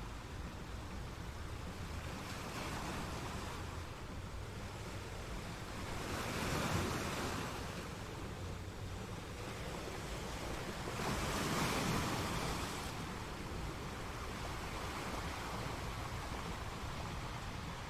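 A steady rushing noise that swells louder twice, about six seconds in and again about eleven seconds in.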